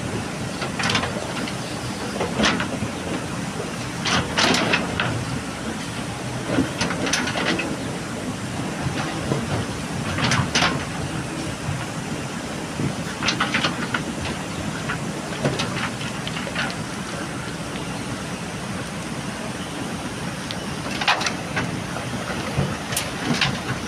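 JCB backhoe loader's diesel engine running steadily under work, with gravel clattering and scraping against the bucket and tipper every few seconds while it loads.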